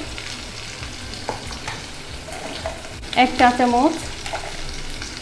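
Oil sizzling in an aluminium pot as dried fish and onion, garlic and cumin paste fry, with a metal spoon stirring and scraping through it; a sharp tap of the spoon on the pot about a second in.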